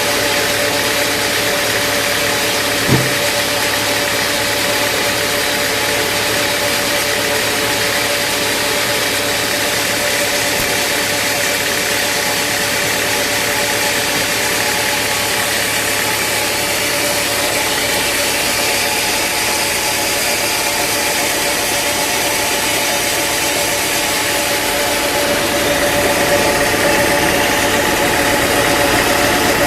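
Sawmill engine running steadily, with a single knock about three seconds in and the sound growing a little louder near the end.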